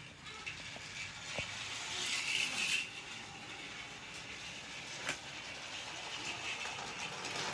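Battery-powered TrackMaster toy engine running along its plastic track: a steady motor whir with an occasional sharp click.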